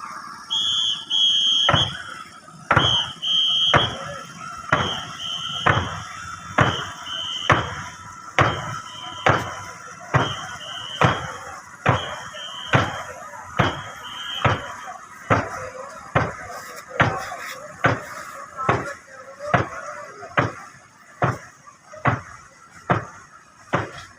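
Snake boat crew paddling in unison: a sharp stroke a little under once a second, about 28 in all, drawing slightly faster. Over the first half a shrill whistle sounds on each stroke, then fades out.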